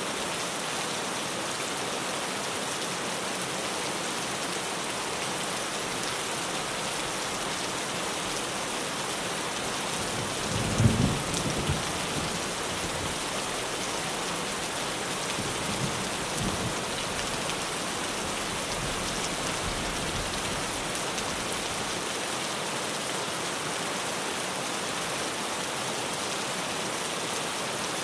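Heavy rain falling steadily on a tin roof, an even hiss of drops. About ten seconds in, a low rumble of thunder swells up briefly, with fainter rumbles a few seconds later.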